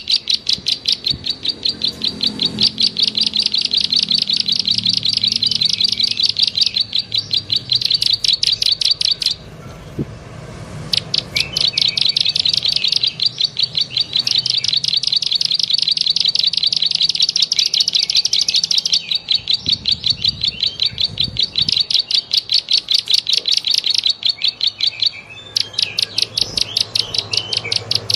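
Bird-lure recording of a bird's rapid clicking chirps, high and evenly repeated in long runs with short pauses between them.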